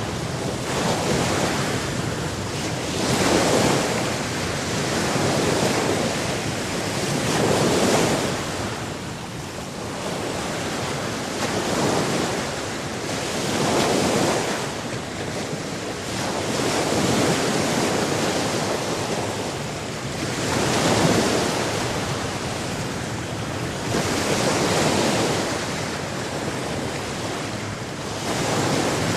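Sea waves washing onto a shore, a surge of rushing water swelling and ebbing every few seconds.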